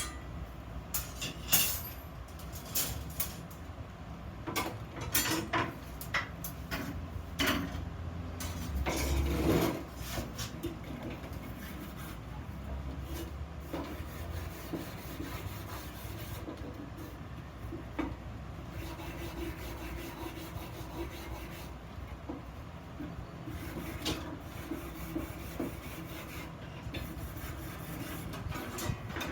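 Steel pieces being handled at a metalworking bench: a run of sharp metal knocks and clanks in the first half, with a longer scrape around the middle, then quieter rubbing and occasional light clicks over a faint hum.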